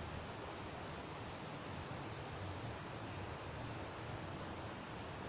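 Steady high-pitched insect trill, held on one unbroken note, over an even background hiss.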